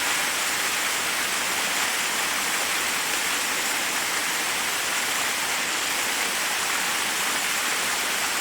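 Forest waterfall: a steady, unbroken rush of water falling over rocks, even in level and mostly high and hissy.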